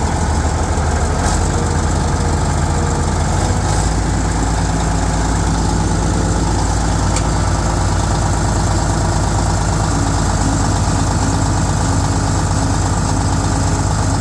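Fiat-Allis HD21B bulldozer's diesel engine running steadily, its low end growing a little stronger about four seconds in.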